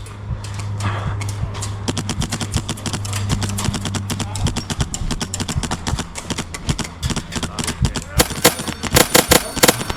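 Airsoft guns firing rapid full-auto bursts from several shooters, the shots running into one another, with the loudest strings of shots near the end.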